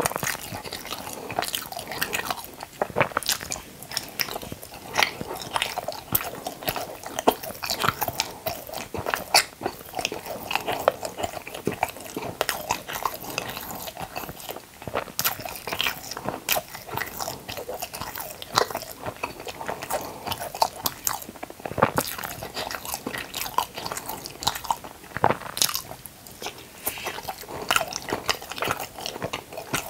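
Close-miked biting and chewing of a soft white layered food roll: wet smacking and crackling mouth noises, dense and irregular.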